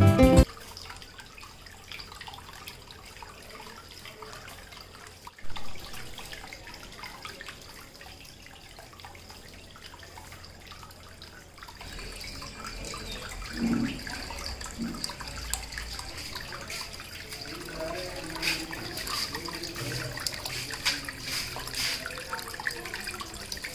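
Water from a small homemade waterfall fountain trickling and splashing steadily, getting somewhat louder from about halfway. A short knock comes about five seconds in.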